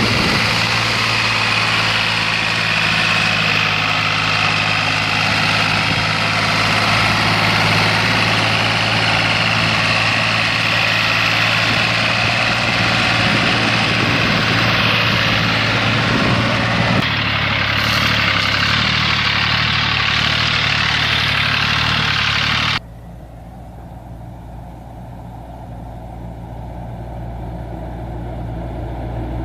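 Small tractor engines running steadily. One is loud, then a sudden switch about 23 seconds in brings a quieter engine that grows louder toward the end.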